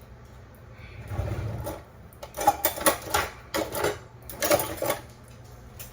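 Rapid clicking and scraping of a spoon against a container in several quick bursts, as matcha powder is scooped and measured out. There is a dull handling bump about a second in.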